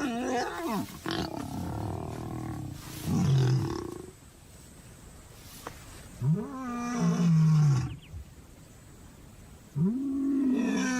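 Male lion roaring: three long, moaning calls about three and a half seconds apart, each rising and then falling in pitch.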